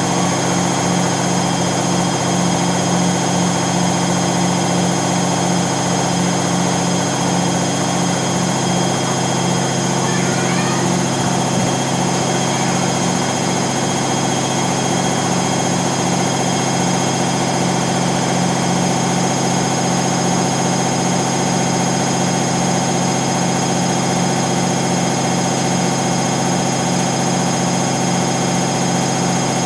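Electrolux washing machine in its spin cycle, running with a loud, steady low hum and drone. The owner puts the rougher-than-new sound down to the drum's ball bearings wearing out after many years of use.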